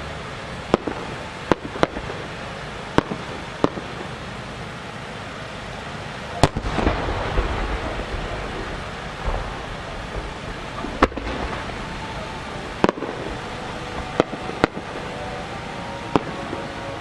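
Large 12-inch (10-gō) aerial firework shells going off: about eleven sharp booms at uneven intervals. The loudest comes about six and a half seconds in and leaves a spreading echo.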